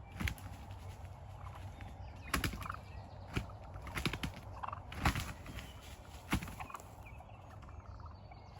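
Wild turkey gobbling several times, each gobble a short loud rattling call.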